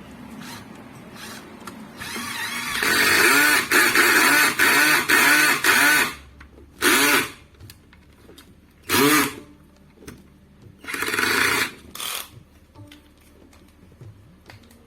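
Cordless drill-driver driving screws. It makes one long run of about four seconds, starting two seconds in, then three shorter bursts.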